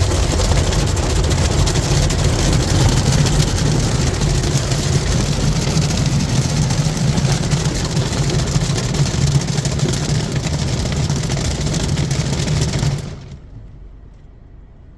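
Ryko SoftGloss MAXX 5 rollover car wash working over the car, heard from inside the car: a loud steady rush of spraying water and machinery with a low hum beneath. It stops suddenly near the end.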